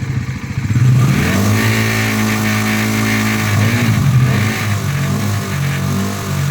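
Single-cylinder Bajaj motorcycle engine being revved. It climbs about a second in, is held high, drops briefly after three and a half seconds, then revs again unevenly. It is being run up to listen for a high-rev tick that the owner blames on a slack cam chain tensioner.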